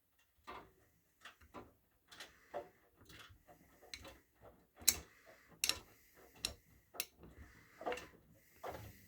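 Miele W1 washing machine in a quick power wash cycle: after a pause, the drum starts turning and gives about a dozen irregular clicks and knocks with a faint hiss between them.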